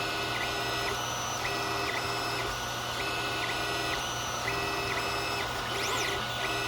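Creality Ender 3 3D printer running a print: its stepper motors whine in pairs of short moves, each rising to pitch, holding, and falling away, about every one and a half seconds, over the steady hiss and hum of its cooling fans.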